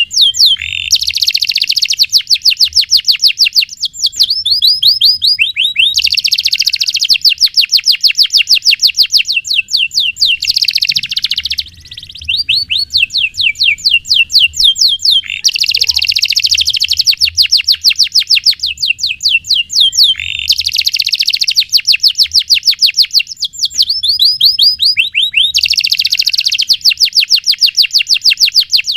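Canary singing a long, continuous song of rapid trills and rolls, loud repeated chirping notes that switch to a new phrase every few seconds, with a brief break about halfway through.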